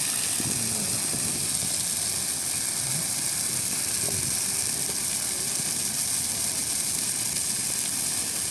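A large bonfire of discarded Christmas fir trees burning with a steady hiss.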